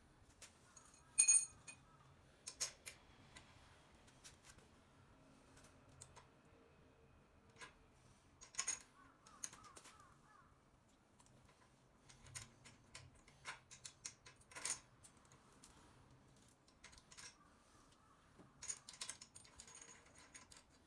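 Scattered light metallic clinks and clicks of tools and metal parts being handled. A few strikes ring briefly, the loudest about a second in.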